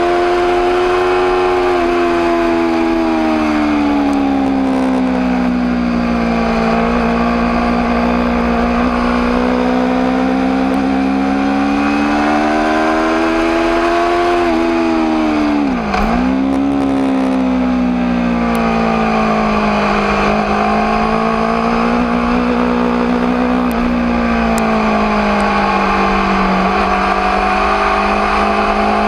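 Aprilia RSV4 APRC's 65-degree V4 engine running steadily, its revs slowly rising and falling over several seconds. About halfway through the revs drop sharply for a moment and pick straight back up.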